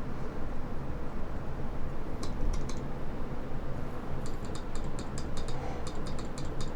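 Newly assembled American Morse KK1B straight key being tapped by hand, its lever clicking down onto the contact and back. A few taps come about two seconds in, then a quick run of clicks from about four seconds on. The key is still unwired, so there is no tone, only the mechanical clicks.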